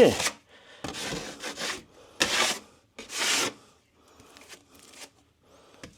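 Drywall scraper working cornice cement over a wall patch: about three long scraping strokes, then fainter scrapes near the end.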